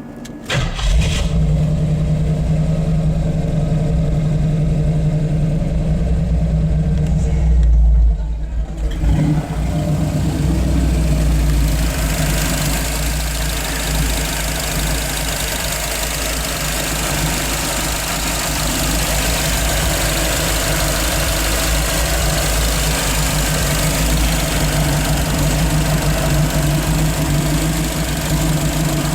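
Rebuilt Ford 302 V8 with full-length headers and dual exhaust, running at a steady idle from about a second in, with a brief louder swell near eight seconds. A steady hiss joins the engine sound from about twelve seconds in.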